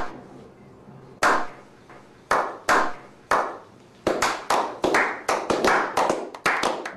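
A slow clap: single hand claps spaced about a second apart, then from about four seconds in quicker, overlapping claps from several people.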